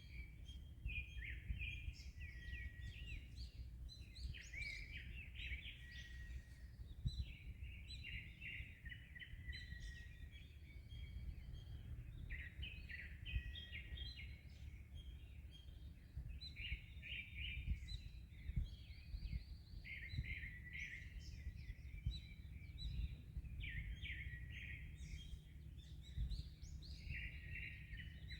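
Several birds chirping and trilling continuously in overlapping short phrases, over a low, gusty rumble of wind.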